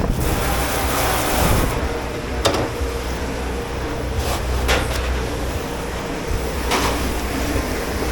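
Commercial kitchen dish pit noise: a steady machine hum with a hiss in the first second and a half, and a few sharp clatters of dishes or utensils, four in all.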